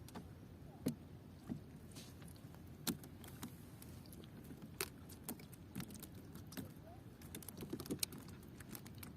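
Irregular sharp clicks and light knocks, the loudest about one second and three seconds in, over a steady low rumble.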